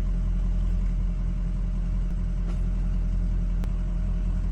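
Motor vehicle engine running steadily at a low, even idle, a constant low rumble with a couple of faint clicks.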